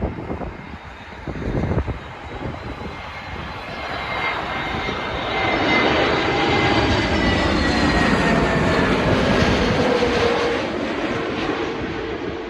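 Airbus A321 jet airliner passing overhead on its landing approach. The engine noise swells to a peak around the middle and then eases off, with a whining engine tone sliding down in pitch as it goes past.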